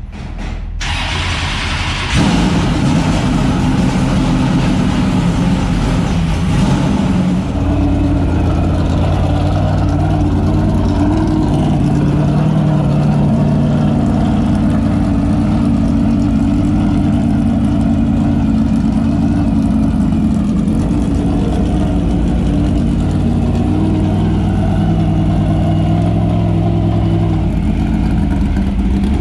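Super late model dirt race car engine starting about two seconds in, then running loud and steady at idle, its pitch shifting a few times.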